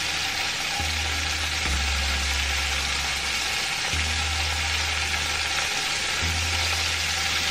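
Hot olive oil with lemon zest sizzling in a frying pan as minced garlic is dropped in: a steady frying hiss.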